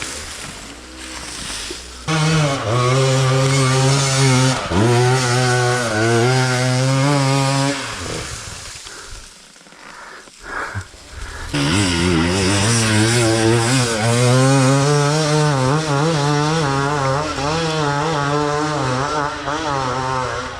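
Enduro dirt bike engine revving hard, the pitch wavering up and down as the throttle works. It falls away to low revs with a couple of short blips about eight seconds in, then revs hard again from about eleven seconds on.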